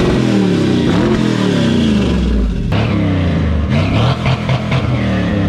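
Classic car engines being revved, the pitch rising and falling several times, with a cut from one vehicle to another about two and a half seconds in. In the second part the engine of a 1971 Chevrolet C10 pickup, hood open, is being revved.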